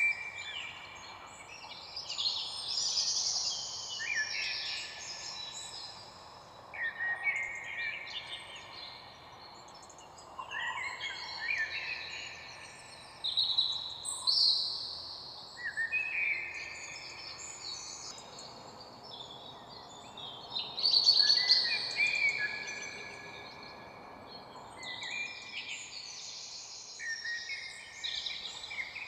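Many songbirds singing and chirping together, overlapping short phrases and trills, over a steady low background hiss.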